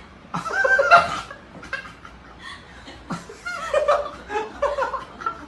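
People laughing in short broken bursts, loudest about half a second to a second in.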